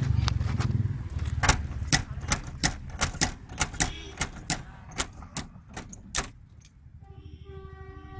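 A quick, irregular run of sharp clicks or taps, about three a second, of the kind made while a car number plate is being fixed on. About seven seconds in they stop, and a steady horn begins, holding several pitches at once.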